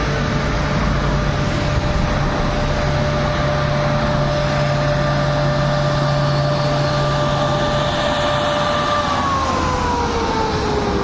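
Electric train passing close by: a steady rush of wheel and track noise with a whine from the train, which drops in pitch about nine seconds in as it goes past.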